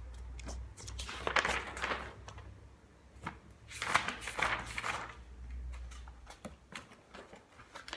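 Pages of a paper book being turned and handled: two rustling swishes, about a second in and again about four seconds in, with small clicks and taps between, over a steady low hum.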